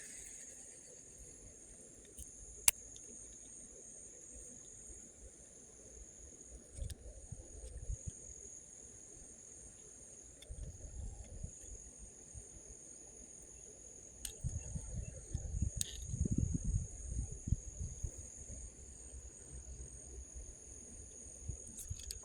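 Crickets trilling steadily in one high, unbroken tone, with a sharp click about three seconds in and several bouts of low rumbling, the longest and loudest about two-thirds of the way through.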